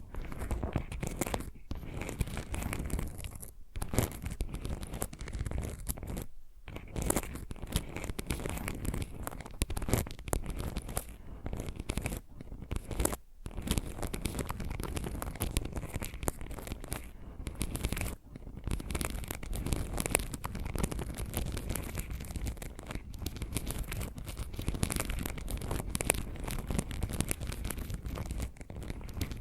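Fingernail scratching and tapping triggers played over one another: dense, continuous scratchy rustling filled with quick clicks, broken by a few brief pauses.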